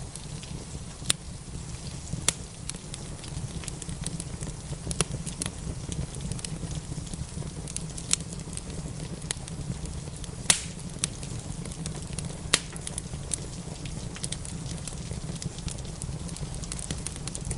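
Wood fire crackling in a fireplace: irregular sharp pops and snaps, the loudest about ten seconds in, over a steady low rumble of the fire. A faint, even hiss of rain runs underneath.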